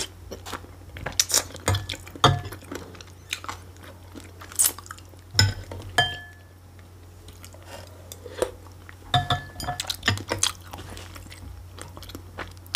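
Close-miked eating: chewing and crunchy bites, with a few short ringing clinks of a spoon against the dishes.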